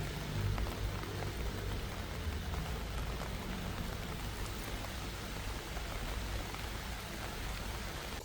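Steady rain falling, an even hiss with a low rumble beneath it, cutting off abruptly at the end.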